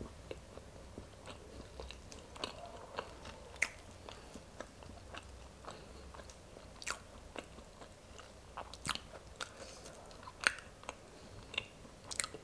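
Close-miked eating of boiled velvet beans (Mucuna): pods bitten and chewed and split open by hand, heard as faint, irregular sharp clicks and soft crunches.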